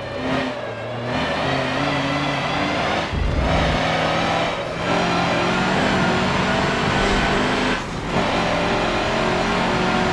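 Mercedes-Benz racing truck's turbo-diesel engine running hard under load, its note broken by brief dips about 3, 5 and 8 seconds in.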